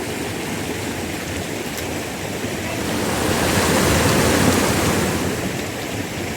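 Heavy monsoon rain pouring, a steady rushing noise that swells louder for a couple of seconds in the middle.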